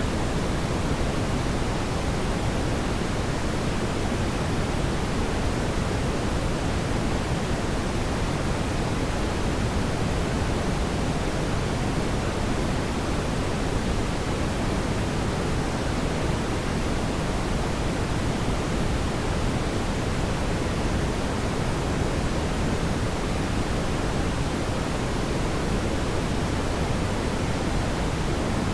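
Fireplace ambience: a steady, even rushing noise of burning flames, heaviest in the low end, with no distinct crackles or pops.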